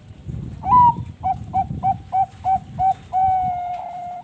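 Bangkok-line perkutut (zebra dove) singing: a higher opening note, then six short coos about three a second, ending in one long held note.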